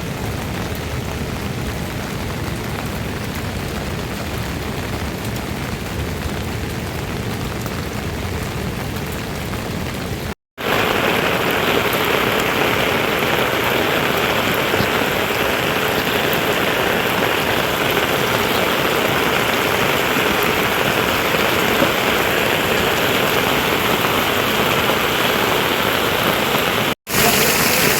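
Steady heavy rain falling. It cuts off abruptly about ten seconds in and resumes louder and brighter, with another brief cut near the end.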